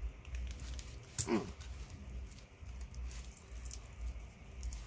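Low thudding bass from a neighbour's loud car stereo, with light clicks and one brief falling whine about a second in.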